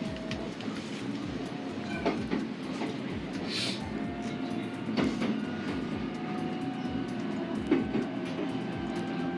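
Running noise of an SR1 series electric train, heard from inside the car while it travels: a steady rumble with a few sharp knocks of the wheels over rail joints, and faint steady tones over it.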